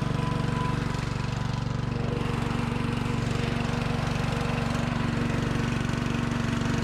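Small lawn-tractor engine running steadily at a constant speed, with a fast even firing beat.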